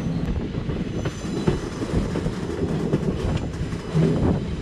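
Indian Railways passenger train running along the track, heard from an open coach door: a steady rumble of the coaches with the irregular clatter of wheels clicking over rail joints.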